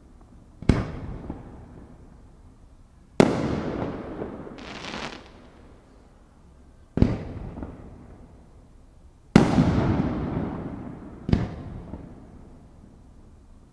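Aerial firework shells bursting overhead: five sharp booms a few seconds apart, each trailing off in a long echoing tail. The fourth boom is the loudest.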